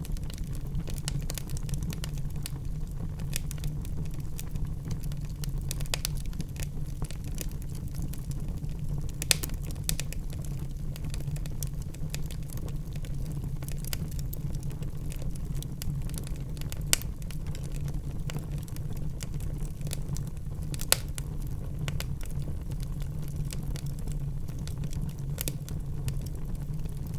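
Wood fire crackling in a fireplace: many small sharp crackles over a steady low rumble, with a few louder pops, at about 9, 17 and 21 seconds in.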